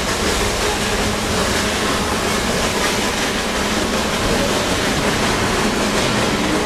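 Steady running noise of a train carriage in motion, heard from on board.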